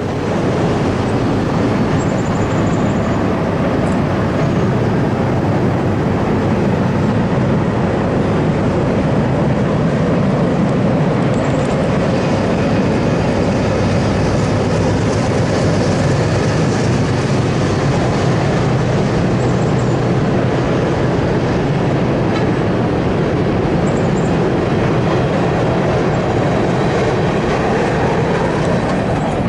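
Norfolk Southern freight train led by a GE Dash 9 diesel locomotive rolling steadily across a railway bridge: a continuous loud rumble of locomotive and wheels on rail.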